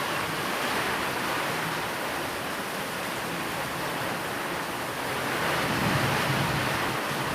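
Steady rain falling, an even hiss that swells a little about five seconds in.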